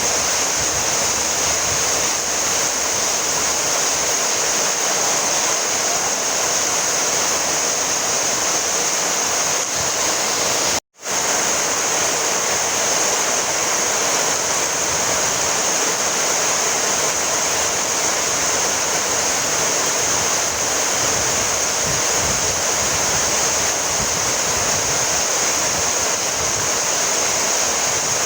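Rain falling steadily, an even hiss with no single drops standing out. It cuts out for a split second about eleven seconds in.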